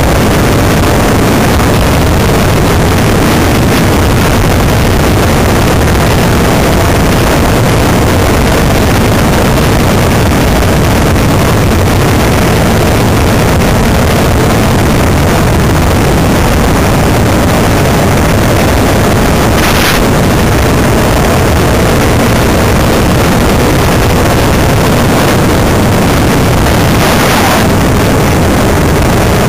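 Enduro motorcycle engine running steadily as the bike rides along at road speed, with heavy wind buffeting on the on-bike microphone. A couple of brief louder rushes come about two-thirds of the way in and near the end.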